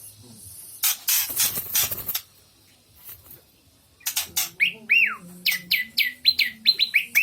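Oriental magpie-robin (kacer) vocalising: a couple of harsh, raspy notes about a second in, a short pause, then a rapid run of sharp clicks and downward-slurred whistles from about four seconds in.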